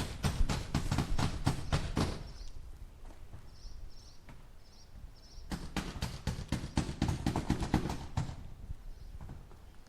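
A hammer driving nails into wood: a fast run of strikes, about five a second, for two seconds, then a pause with a few faint high chirps, then a second run of strikes for about two and a half seconds.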